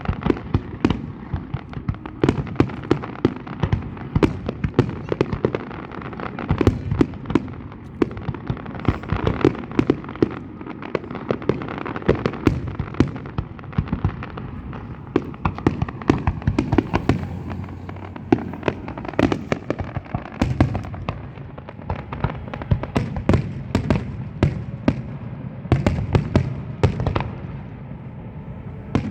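A fireworks display: a continuous barrage of bangs and crackles, many reports a second, over a low rumble of shells bursting.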